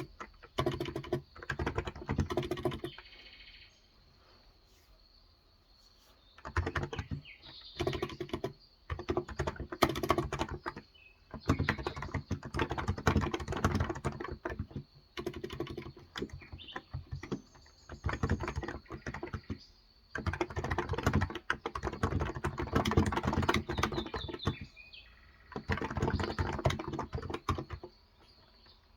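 Typing in bursts on a Cox Endeavour tenkeyless electrostatic capacitive keyboard with 35 g switches, each burst a fast run of key clicks, with a pause of a few seconds early on and the typing stopping near the end. Birds chirp faintly in the background.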